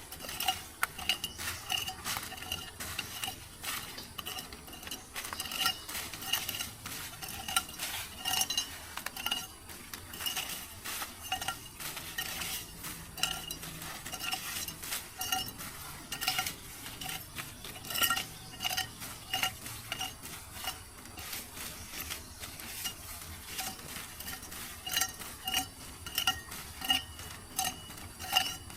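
Metal spoon clinking against a metal pot about twice a second, as in stirring, each stroke ringing briefly at the same pitches, over a steady hiss.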